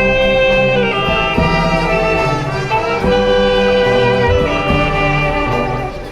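Symphonic wind band playing a danzón: long held melody notes over a steady, repeating bass rhythm.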